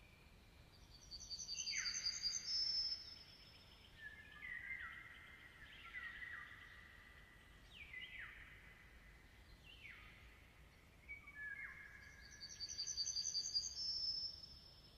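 Wild birds singing: a fast high trill of repeated notes comes twice, near the start and near the end, over downward-sliding whistled notes repeated every second or two.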